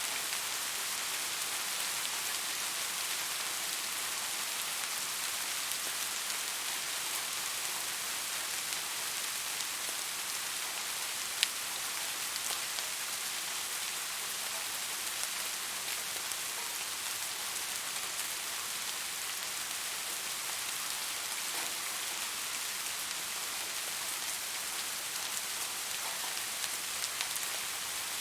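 Steady rain falling, an even wash of sound with scattered drop ticks and one sharper tick about eleven seconds in.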